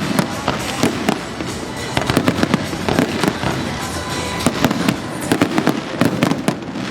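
Fireworks going off in rapid succession: many bangs and crackles overlapping, a few every second.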